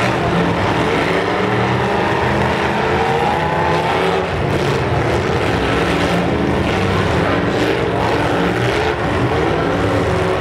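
Several demolition derby cars' engines running at once, revving up and down as the cars drive and ram each other.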